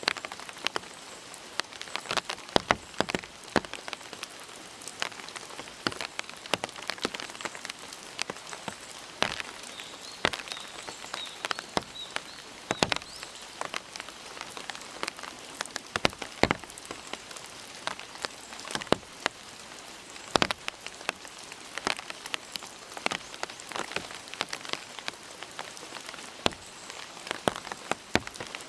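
Steady rain falling, with frequent, irregular sharp drip hits from drops striking nearby surfaces.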